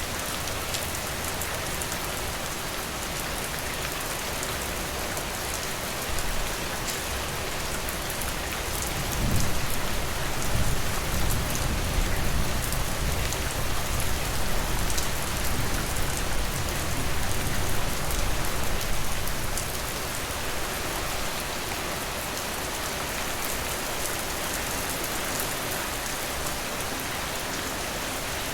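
Steady rain falling, an even hiss of drops. About a third of the way in, a low rumble swells under the rain for around ten seconds, then fades.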